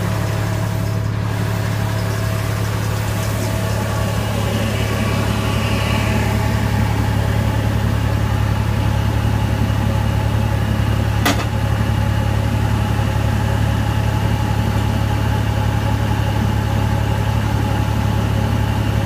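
Tractor engine running steadily at constant speed, driving a pneumatic two-row seed planter, with a steady hum and faint steady tones over it. A single sharp click comes about eleven seconds in.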